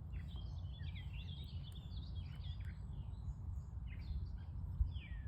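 Small wild birds chirping, many short rising and falling calls in quick succession that thin out around the middle and pick up again near the end, over a steady low rumble.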